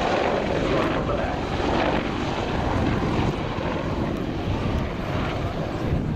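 Apache attack helicopter flying a low-level display pass, its rotors and turbine engines running with a steady, loud drone.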